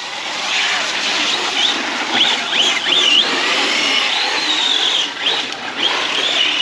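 Arrma Big Rock 6S RC monster truck's brushless electric motor whining as the throttle is worked, its pitch rising and falling quickly again and again, over a steady hiss.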